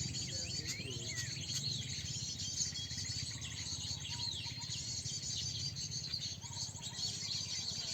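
Many small songbirds chirping and calling at once, a dense overlap of short high chirps and quick up-and-down whistles, over a steady low hum.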